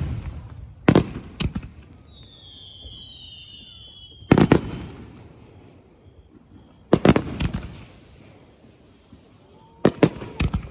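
Fireworks display: aerial shells bursting with sharp booms every few seconds, some in quick pairs, each followed by a rumbling echo. About two seconds in comes a cluster of high whistling tones that glide slightly downward.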